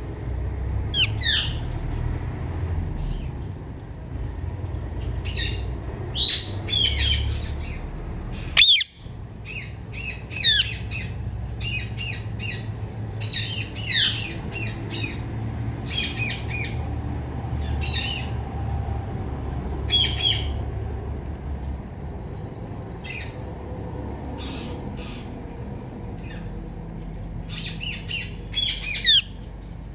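Female Indian ringneck parakeet calling loudly: short, sharp chirps and squawks in quick runs, with brief pauses between them. The loudest call comes about nine seconds in. A steady low rumble runs underneath.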